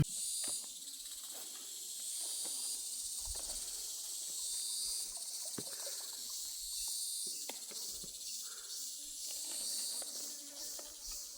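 Insects chirring in a steady, high-pitched chorus that swells and eases every few seconds, with scattered small clicks and knocks beneath it.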